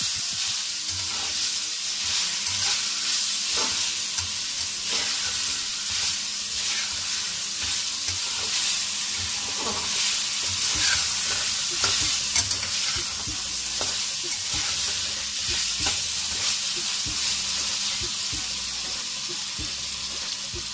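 Boneless chicken with chopped tomato and green chillies sizzling as it fries in ghee in a metal karahi. It is being stirred and mixed, with frequent short scrapes and knocks of the utensil against the pan over a steady frying hiss.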